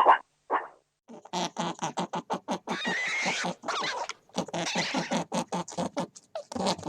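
A dog barks once or twice at the very start. After a sudden change about a second in, an animal makes a fast series of short, pitched calls, several a second, with a brief pause near the end.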